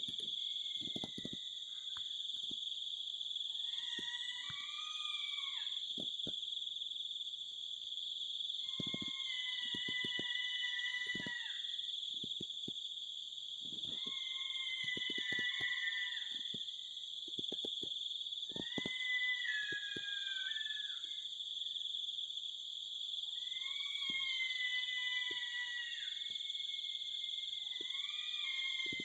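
Steady high-pitched insect drone, over which an unidentified animal repeats a strange wavering call about every five seconds, each call lasting a second or two; faint short knocks come in between.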